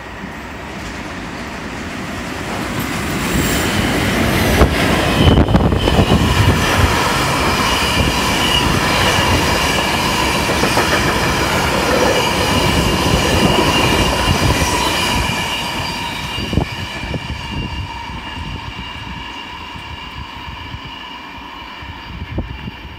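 Electric freight train passing at speed, its wagons' wheels rumbling and knocking over rail joints, with a steady high-pitched wheel squeal ringing over the top. It builds over the first few seconds, is loudest for about ten seconds, then fades away.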